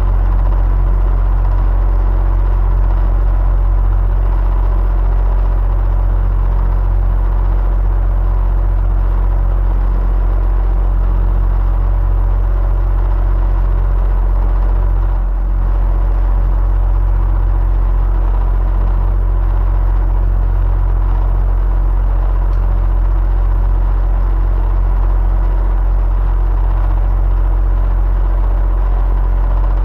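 Electric fan running steadily: a constant deep hum with a faint whir and a few steady tones above it.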